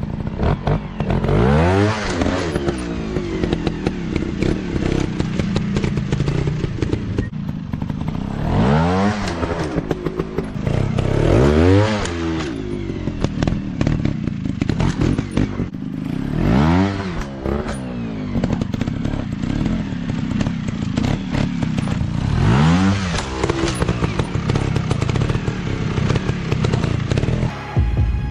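Dirt bike engines revving hard, the pitch climbing sharply in about five bursts a few seconds apart, with scattered knocks between them.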